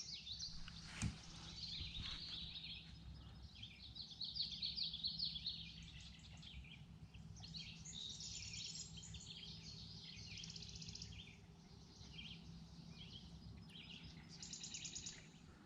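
Several small birds chirping and singing over a faint steady low hum, with a single sharp tap about a second in.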